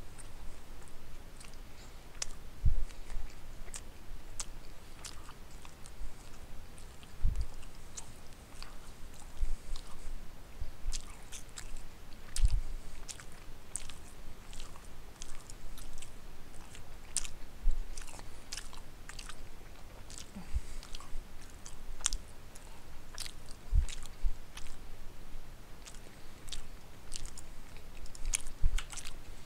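Close-miked mouth sounds of a man chewing a soft meal of pot roast, carrots and potatoes: irregular wet smacks and clicks, with a low thump every few seconds.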